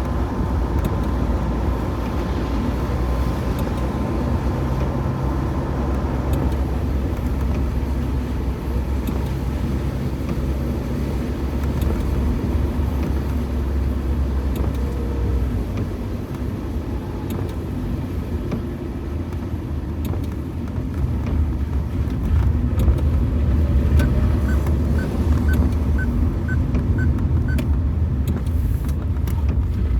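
Car driving on a wet road: a steady low rumble of engine and tyre noise. Near the end comes a short run of light, evenly spaced ticks, about two a second.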